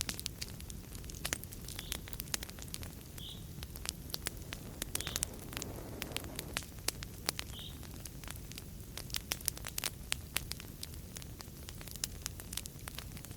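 Wood fire crackling in a fireplace, with frequent sharp pops and snaps over a steady low rumble of the flames. A few faint short high squeaks come through now and then.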